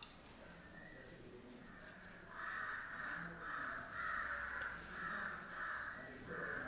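A bird calling over and over, about two calls a second, starting about two seconds in.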